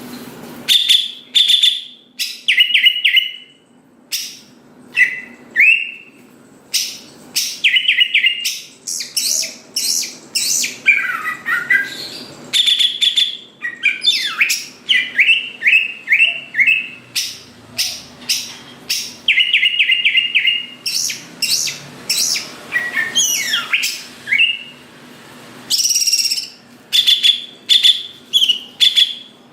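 Cucak ijo (green leafbird) in full song: a continuous run of loud, short chirps and whistled notes, often repeated several times in quick series, with sliding rising and falling phrases mixed in.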